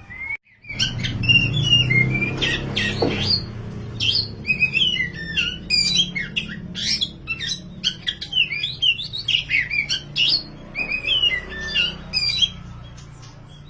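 Oriental magpie-robin (kacer wulung) singing a fast, varied run of sweeping whistled phrases that starts about a second in and breaks off shortly before the end, over a steady low hum.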